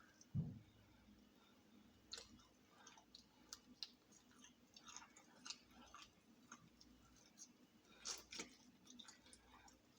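Fried chicken being chewed close to the microphone: quiet, irregular mouth clicks and crunches. A low thump just under half a second in is the loudest sound.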